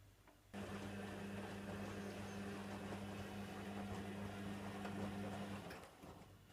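Hoover Nextra HNWL7146 washer dryer's motor turning the drum in a wash tumble with a steady hum, laundry and water churning. It starts suddenly about half a second in and stops after about five seconds.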